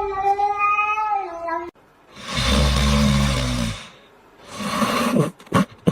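A cat yowling in a long, wavering meow that cuts off suddenly after about a second and a half. Two rougher, noisy sounds follow, the first with a low rumble under it, and then a few sharp clicks near the end.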